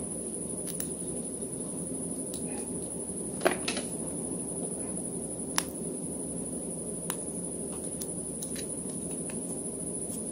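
A few sharp clicks and taps from small hard parts being handled, over a steady background hum and a constant high whine; the loudest click comes about three and a half seconds in.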